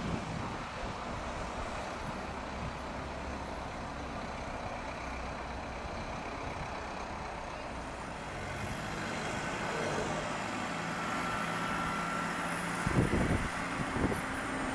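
Electric passenger train approaching: a steady rumble with a thin high whine that rises about eight seconds in and then slowly falls, a low hum joining it, and two short thumps near the end.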